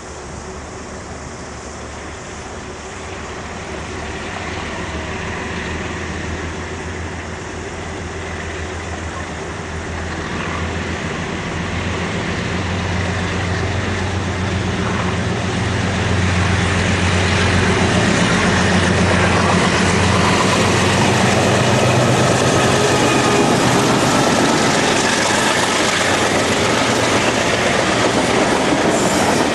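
Freight train approaching, its sound growing steadily louder, with a steady low drone beneath and a rising rush of wheel and rail noise.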